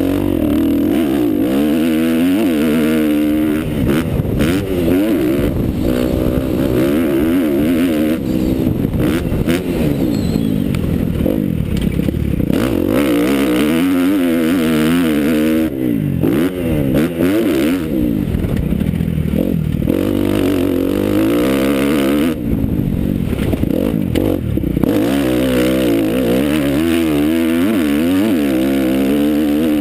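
Motocross bike engine revving hard and constantly, its pitch climbing and falling over and over as the throttle is worked, with a few short drops where the throttle closes.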